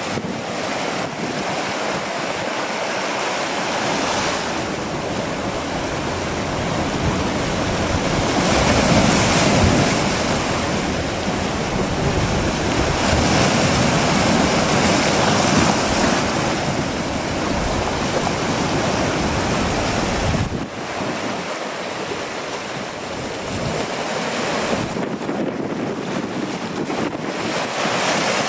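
Strong gusty wind buffeting the microphone over a steady rush of surf. It swells in two big gusts and then eases suddenly about twenty seconds in.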